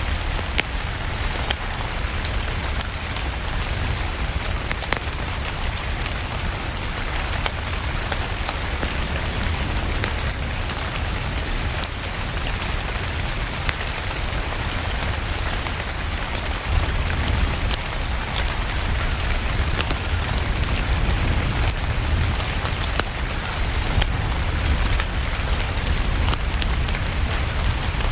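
Steady rain mixed with a crackling wood fire: an even hiss over a deep low rumble, dotted with frequent sharp pops and ticks.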